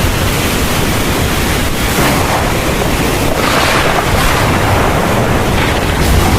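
Heavy rain falling steadily as a dense, even hiss, with a low rumble underneath; the rain swells briefly about three and a half seconds in.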